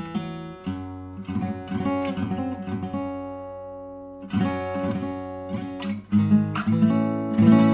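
Pernambuco-backed OM acoustic guitar with a European spruce top, played solo: picked notes and chords. About three seconds in, one chord is left to ring and fade, then strummed chords come in again, stronger from about six seconds in.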